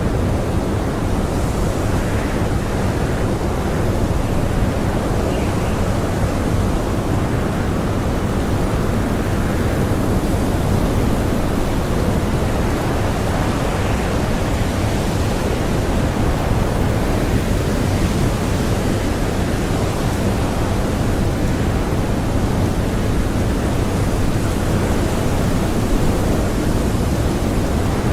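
Strong blizzard wind howling steadily, a deep, unbroken rush heard from inside a cottage.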